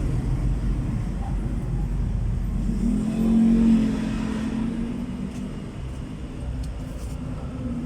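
Vehicle engine running with a low rumble, briefly revving louder and higher about three seconds in, then settling back.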